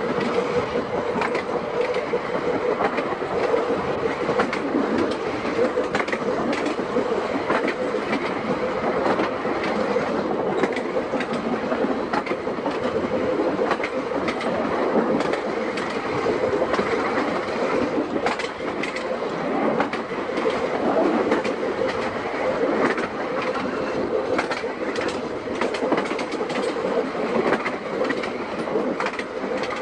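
Seaton Tramway electric tram running along the track, with a steady hum and wheels clicking over the rail joints.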